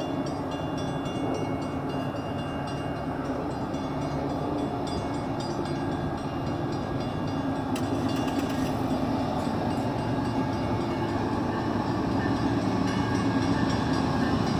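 Canadian Pacific diesel freight locomotive approaching at the head of an oil tank train, its engine drone growing steadily louder.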